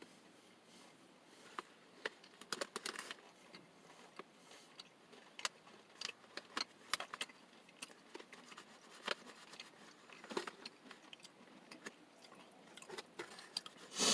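Chewing chocolate-coated granola bites with an almond butter centre: faint, scattered crunches and small mouth clicks.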